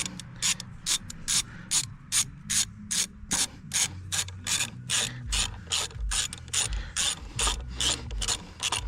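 Hand ratchet wrench clicking in a steady run, about three to four clicks a second, as a fitting on the track loader is worked with it.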